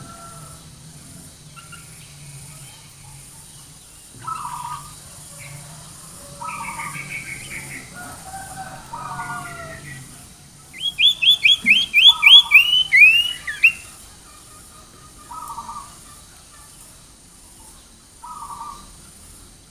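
Songbird song played as a lure recording for the sirtu bird: short chirped phrases repeated every couple of seconds, and a loud rapid series of sharp chirps about eleven seconds in, lasting some three seconds.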